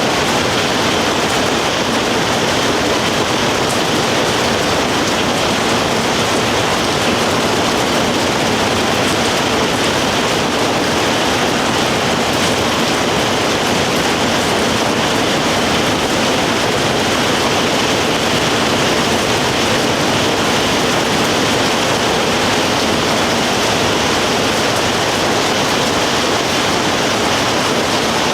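Rain pouring down steadily, an even, unbroken hiss.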